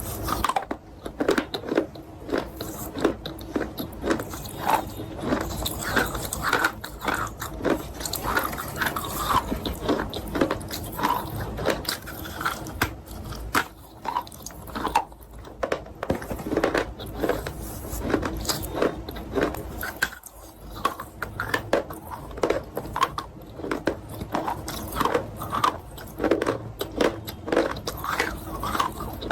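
Chalk with paste being bitten and chewed: steady chewing with many small crunches.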